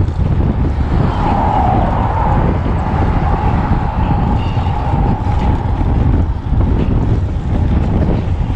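Wind buffeting the microphone of a moving bicycle, with a steady high whine held for most of several seconds.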